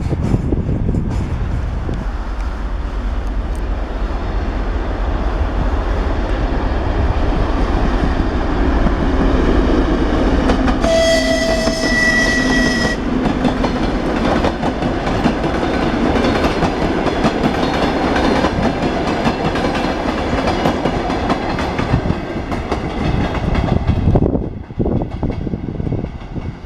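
A train passing close by, its wheels clattering and rumbling on the track, with one horn blast of about two seconds roughly eleven seconds in. The rumble drops away sharply near the end as the train clears.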